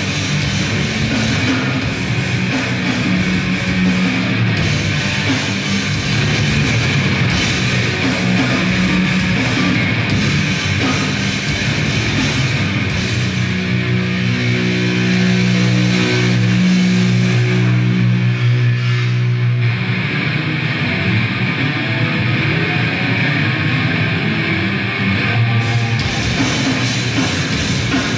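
Grindcore band playing live through a club PA: heavily distorted guitar and bass over drums. About midway the low notes ring out held for several seconds before the full band texture returns.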